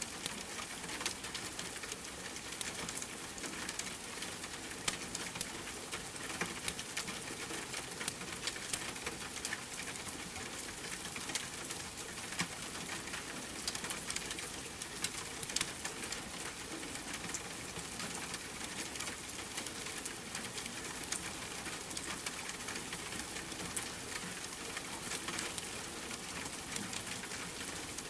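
Steady rain with a fire crackling: an even hiss with frequent small, sharp pops and ticks scattered through it.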